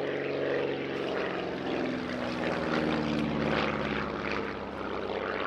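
Light piston-engined propeller aircraft flying low past the crowd. The engine note drops in pitch as they go by, about two seconds in.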